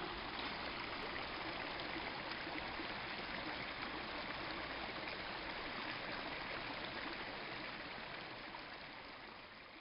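Steady rushing of a flowing stream, fading out near the end.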